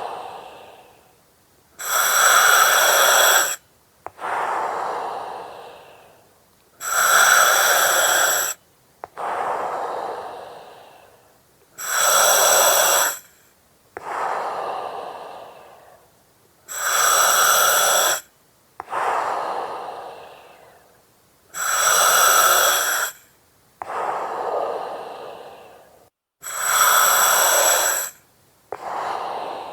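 Slow, regular breathing through an oxygen mask, about one breath every five seconds, six in all. Each breath has a loud hissing phase of about a second and a half with a thin whistle from the mask's valve or regulator, followed by a softer airy breath that fades away.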